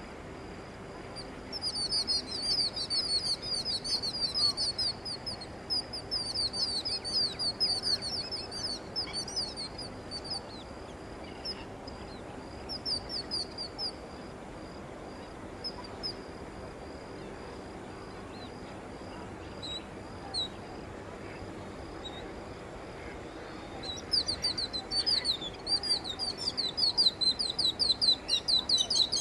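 A small bird chirping in fast runs of quick, high, repeated notes: one long bout through the first third, a few scattered notes in the middle, and another long bout starting near the end.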